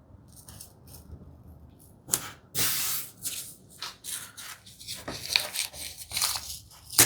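Masking tape being pulled off the roll with a ripping hiss about two seconds in, followed by short crackling rustles as the tape is handled and pressed down, and a sharp tap near the end.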